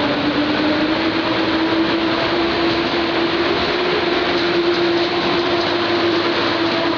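Passenger train pulling away behind an EU07 electric locomotive: a steady hum that rises slightly in pitch over the first few seconds, then holds, over the continuous noise of wheels rolling on the rails.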